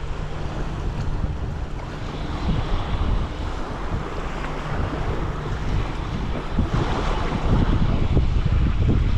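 Strong, gusty wind buffeting the microphone with a heavy rumbling roar, and a stronger gust about seven seconds in.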